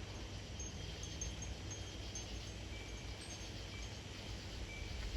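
Wind chimes ringing faintly in a light breeze, with scattered short high tones over a steady low rumble of wind.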